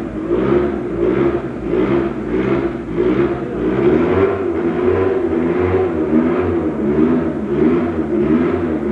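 Racing car engine revving on a hill-climb course, its pitch swinging up and down about twice a second.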